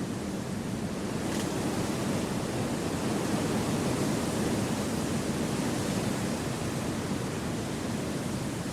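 Steady wind rushing through forest trees, swelling slightly in the middle and easing off again.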